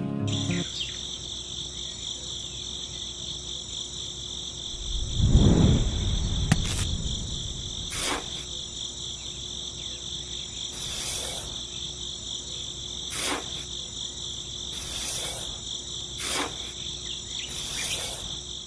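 Crickets chirping steadily in a fast, even pulse. A dull low thud comes about five seconds in, and a few sharp clicks follow at intervals.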